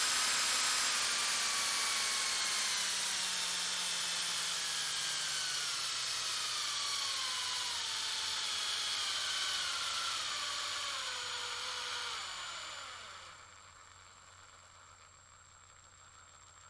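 Power tool's electric motor winding down after being switched off, its whine falling steadily in pitch for about twelve seconds. Around thirteen seconds in it fades to a faint steady hum.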